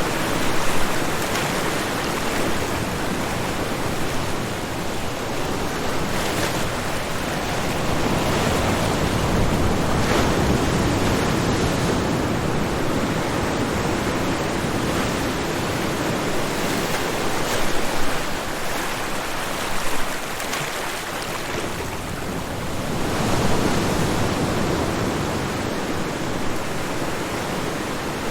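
Ocean surf breaking on a shore: a continuous wash of waves that swells and eases slowly, with a few brief louder crashes.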